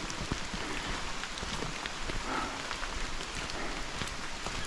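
Steady rain falling, a continuous hiss with the patter of many individual drops.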